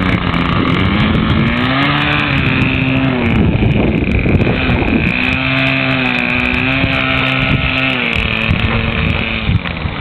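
Small .46 glow-fuel model airplane engine on an RC trainer running at high speed, its pitch dipping and rising again several times as the throttle is worked.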